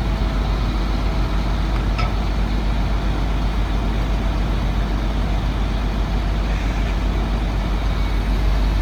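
1999 Chevrolet C7500 medium-duty truck's engine idling steadily with a low rumble, and a single short click about two seconds in.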